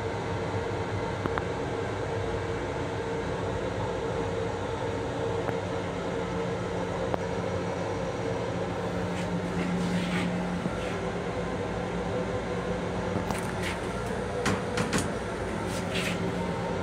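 Interior noise of an M7 electric railcar heard from inside its small restroom: a steady rumble with a low electrical hum, and several sharp clicks and rattles in the second half.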